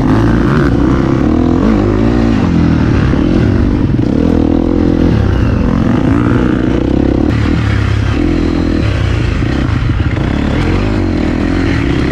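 Dirt bike engine running while riding, its pitch rising and falling as the throttle is opened and closed.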